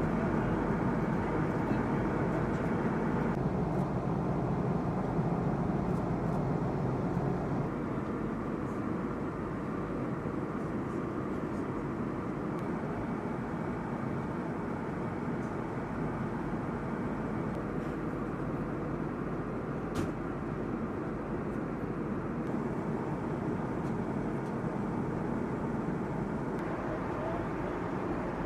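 Steady fighter-jet aircraft noise, an even hiss and rumble with no rise or fall in pitch. It drops a little a few seconds in, and there is a single sharp click about twenty seconds in.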